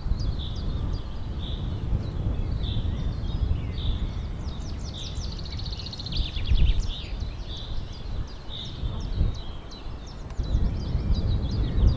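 Mutton simmering in broth in a nonstick pan, with a steady low rumble and many short high chirps and pops over it.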